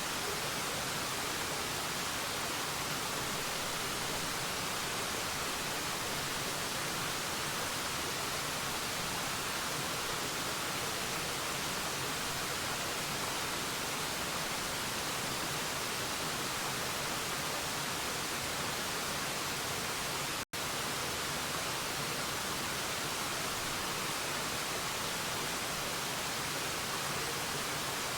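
Steady, even rushing of a waterfall, with no change in level. It cuts out to silence for an instant about twenty seconds in.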